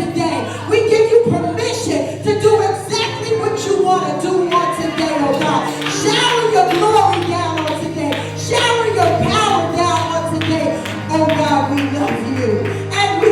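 Live worship music: voices singing over a band with sustained low bass notes and regular percussive hits.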